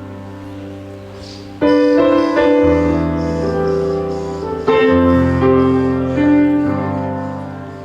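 Slow, soft piano worship music: sustained chords struck about a second and a half in and again near five seconds, each left to ring and fade.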